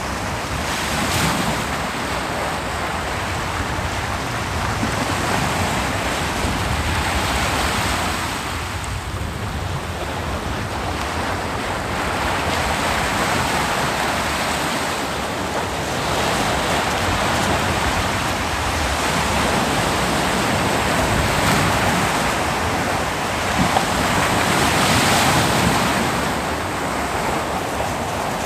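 Ocean surf breaking on a beach, a continuous wash with a louder wave breaking every several seconds, the strongest near the end. Some wind on the microphone.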